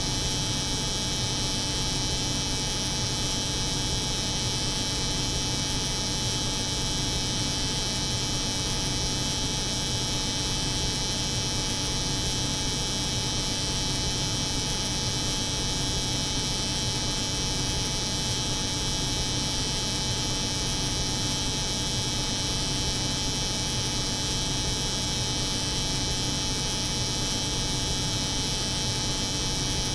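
Steady layered drone of an electric hair clipper buzzing over the hum of a cold room's refrigeration, with a low hum underneath and a bright high buzz on top.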